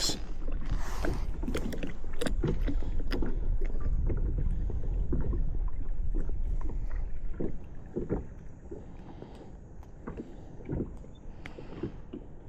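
Light splashes and knocks of water and paddle around a kayak, over a low rumble of wind on the microphone that dies down about seven seconds in.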